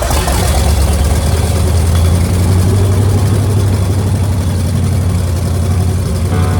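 Ford 351 Cleveland V8 running on open headers, just started and idling with a loud, steady, deep rumble.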